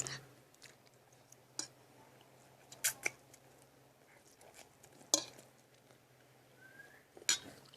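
Quiet eating sounds: a few scattered short clicks and smacks, about four clearer ones a second or two apart, over a faint steady low hum.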